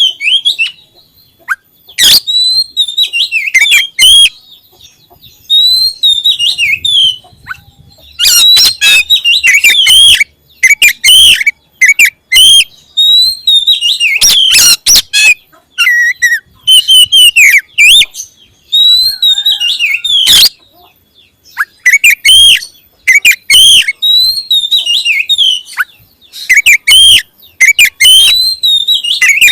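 Oriental magpie-robin (kacer) singing loudly in repeated bursts of rich, varied whistled phrases mixed with sharp harsh notes, with short pauses between bursts.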